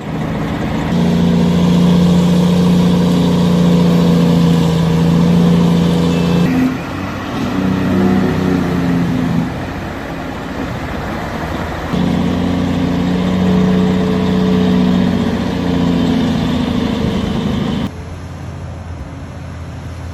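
Truck engine running hard and steady in two long spells, with a rougher, quieter lull between them, then dropping to a lower running level near the end.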